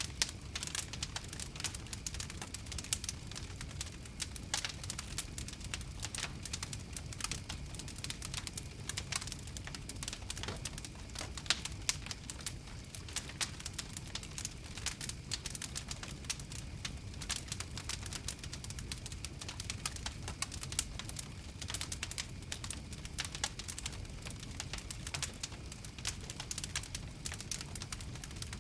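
Wood fire crackling: many small, irregular sharp pops and snaps over a low steady rumble of burning.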